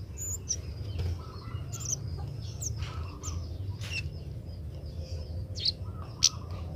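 Kemade bird calling in short, sharp, high chirps at irregular intervals, with the loudest about six seconds in, over a low steady hum.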